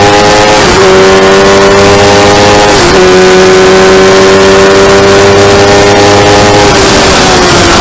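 Motorcycle engine accelerating hard through the gears: the pitch climbs, drops sharply for an upshift about a second in and again about three seconds in, then climbs again. Near the end the revs fall away as the throttle closes. Loud wind noise rushes over the microphone throughout.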